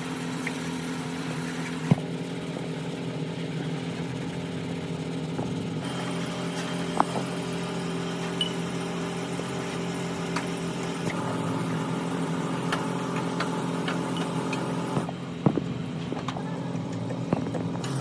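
An engine running steadily at a constant speed, with a few sharp clicks or knocks over it.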